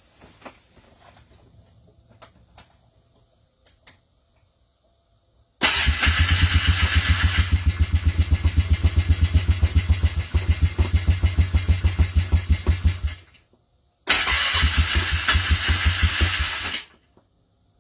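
A cold engine cranking hard on its starter motor, an even pulsing churn for about seven seconds that stops without the engine catching, then a second crank of about three seconds that also stops. Faint clicks come before the first crank. This is a hard cold start in chilly weather.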